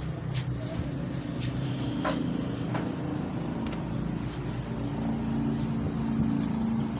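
Diesel engine idling steadily, a low even drone, with a few light metallic clicks in the first few seconds.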